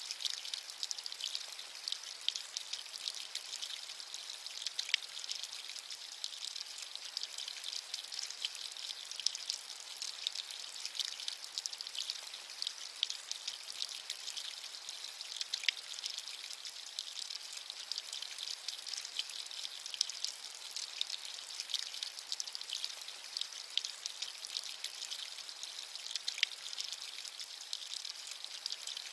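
Steady rain, a dense hiss of many small drop ticks with occasional louder single drops.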